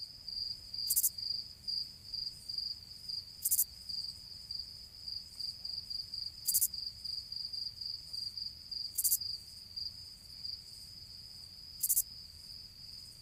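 Insects, likely crickets, trilling: one steady, high-pitched pulsing trill throughout, with a short hissy chirp higher up repeating about every two and a half seconds.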